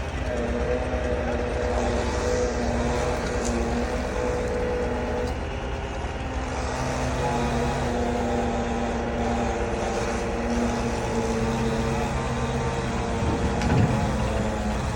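Heavy truck engine running hard under load, its pitch stepping up and down. A brief louder surge comes near the end.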